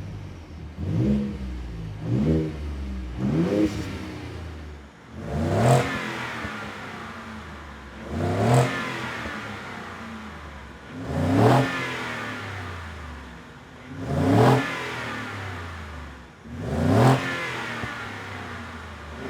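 Stock exhaust of a 2015-or-newer Ford F-150 as its engine is revved from idle: three quick throttle blips, then a series of longer revs about every three seconds, each climbing and falling back to idle.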